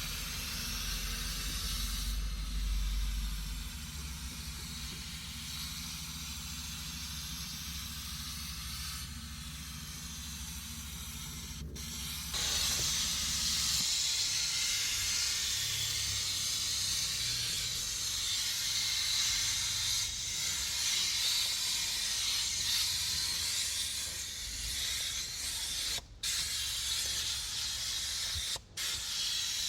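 Steady hiss of a cleaning spray or air jet working in a car's engine bay, growing louder about halfway through. A low hum underneath stops around the middle, and the hiss breaks off briefly twice near the end.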